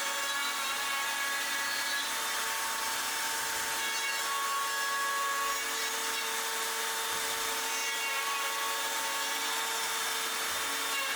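Handheld Makita router running steadily, its motor whine over the noise of the bit cutting a chamfer along the top edge of a wooden lid.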